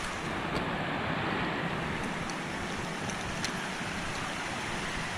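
Steady rushing of a shallow stream flowing over rocks, with a few faint ticks.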